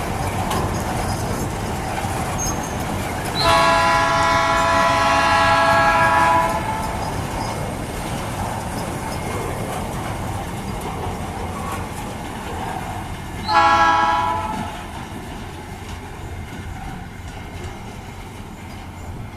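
Locomotive air horn sounding twice over the steady rumble of a passing freight train: one long blast of about three seconds, then a short blast. The train's rumble eases off near the end.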